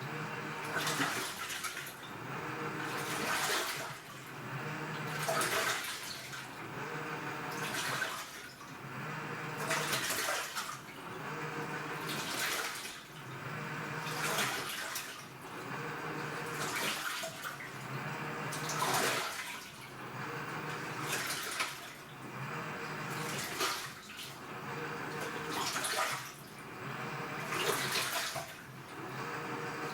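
AQUA washing machine with a direct-drive inverter motor agitating a load in water: the motor hums as the drum's drive turns one way and then the other, and the water swishes with each stroke, about once every two seconds.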